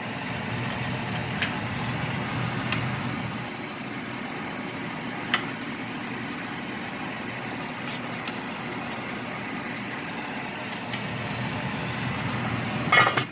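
A spoon clinks against a cooking pot about half a dozen times, a few seconds apart, with a quick cluster of clinks near the end. A steady low rumble runs underneath.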